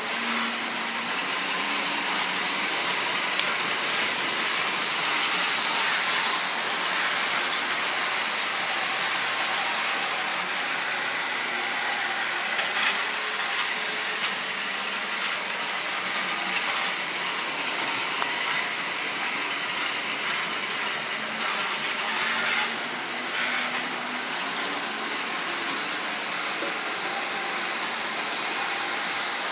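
Model train running on its track: a steady rolling rush of wheels on rail with a faint wavering hum from the locomotive's small electric motor and an occasional click from the rail joints.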